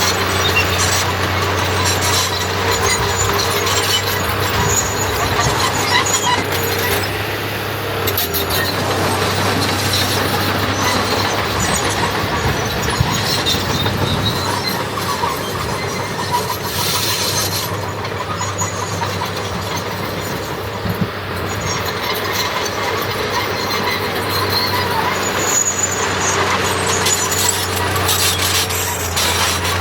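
Komatsu D21 bulldozer at work: its diesel engine drones steadily under a dense, continuous clatter and grinding from the tracks and pushed fill.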